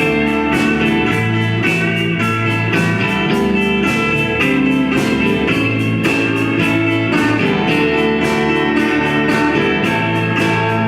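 A band playing guitar-led blues-rock over a steady beat.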